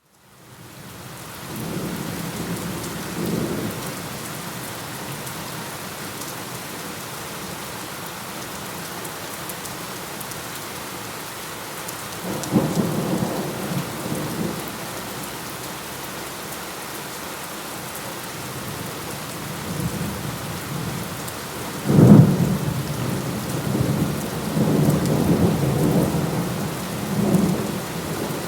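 Steady heavy rain with rolling thunder, fading in from silence at the start. Thunder rumbles a couple of seconds in and again about halfway. A sharper, loudest clap comes near three-quarters of the way through and rolls on in long rumbles toward the end.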